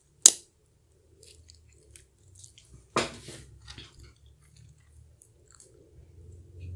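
A person biting into and chewing a Portuguese egg tart, its flaky pastry crust crunching. There are two sharp crunches about three seconds apart, with softer chewing and crackles between.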